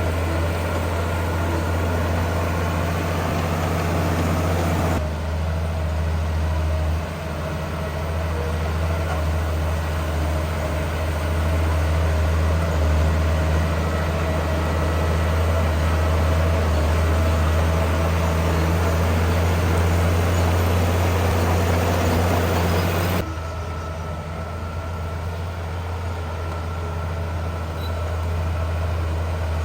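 Heavy diesel earthmoving machinery engines running steadily with a deep drone. The tone and mix change abruptly twice, about five seconds in and again about two-thirds of the way through.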